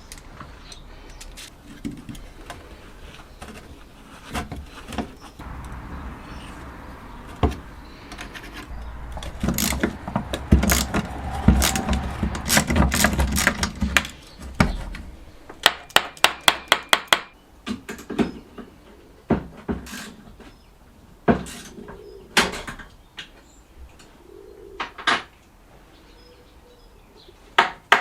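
Hand tools and small metal parts clinking, tapping and knocking as a 1950s Smiths heater fan motor is taken apart, with a stretch of rough rubbing in the middle and a quick run of about eight clicks just after it.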